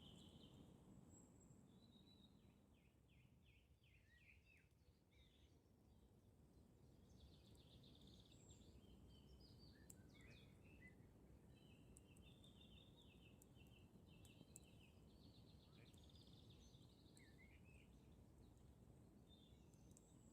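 Faint birdsong in woodland: several birds singing short trilled and chirping phrases one after another, with a few sharp ticks from a small wood campfire crackling.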